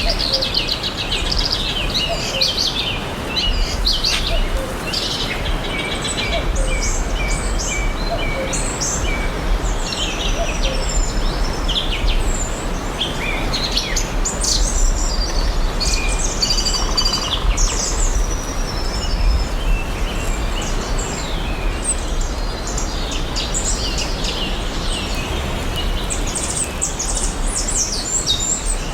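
Several songbirds chirping and trilling, many short high calls overlapping continuously, over a steady background hiss and a low rumble.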